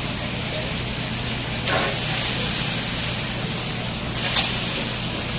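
Steady hiss with a low hum underneath, broken by two brief louder noises, about two and four seconds in.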